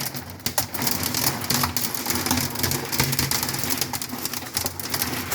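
Hail and rain hitting the house in a dense, irregular patter of sharp clicks.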